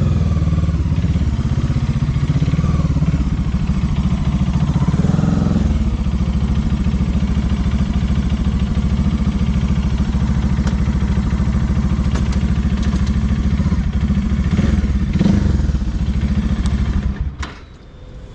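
Bajaj Dominar 400 motorcycle's single-cylinder engine running steadily with a few light clicks. Its sound falls away sharply near the end.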